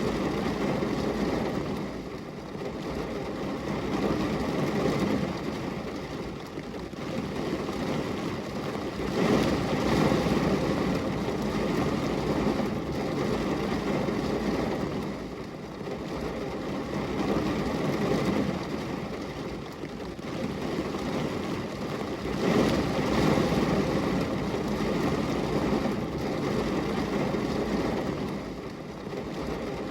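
Rain on a glass window: a dense, steady rushing hiss with a low rumble in it, swelling and easing every few seconds.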